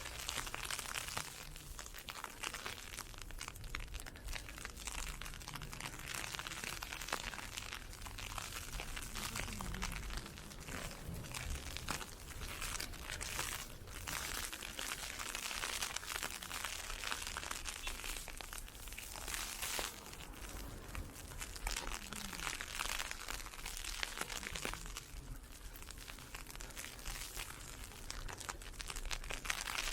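Footsteps crunching through heavy, wet snow, an unbroken run of crisp crunching and crinkling.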